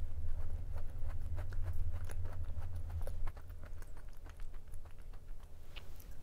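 Close-up chewing of a raspberry-jam-filled macaron: many small crisp clicks and crackles over a low rumble, thinning out and getting quieter after about three seconds.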